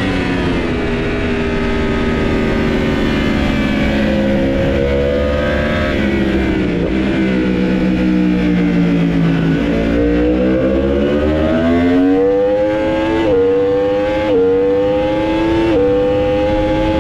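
Superbike engine on track, heard onboard: its pitch falls for about nine seconds as the bike slows, then rises as it accelerates hard, with several quick upshifts in the last five seconds.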